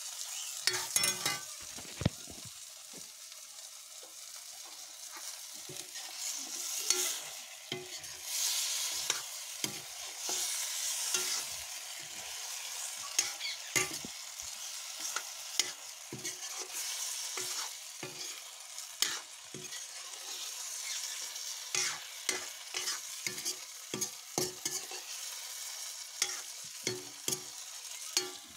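Potato pieces frying in a wok over a wood fire, sizzling steadily, while being stirred with irregular sharp scrapes and knocks against the pan.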